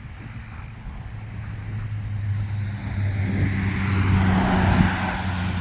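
A vehicle passing by: a rushing noise swells up, peaks near the end and starts to fade, over a steady low hum.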